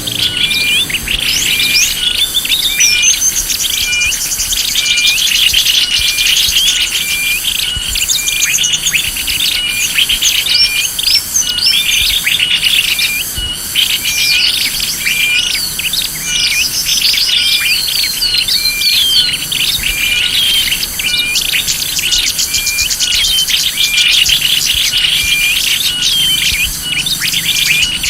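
Small birds chirping and trilling continuously, played as a bird-lure recording for small songbirds: a short high note repeats at an even pace under a mix of fast, sweeping trills and chirps.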